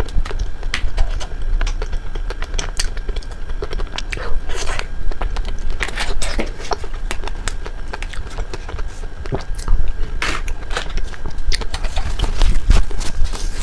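Close-miked chewing and biting of a crispy ice-cream dessert, with many short crunchy clicks and wet mouth sounds. Around the middle a spoon scrapes the tray.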